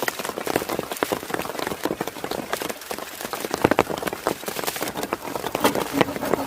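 Rain falling, a steady hiss with many irregular sharp drop impacts.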